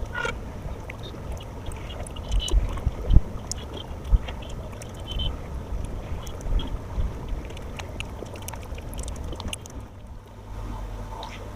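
Eating sounds: chewing and small clicks and taps at the plate over a steady low rumble.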